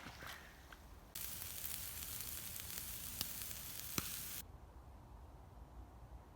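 Food sizzling over a campfire: a dense hiss with a few sharp pops that starts suddenly about a second in and cuts off after about three seconds, leaving a faint low background.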